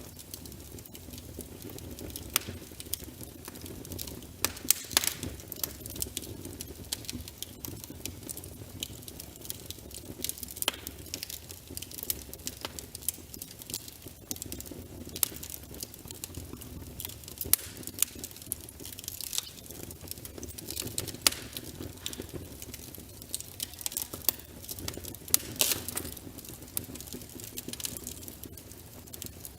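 Logs burning in a fireplace: steady crackling with frequent sharp pops, several of them louder, over a low rumble of the flames.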